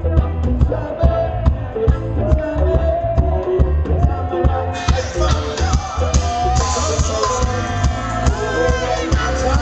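Live reggae band playing with a sung lead vocal over a heavy bass line and a steady drum beat.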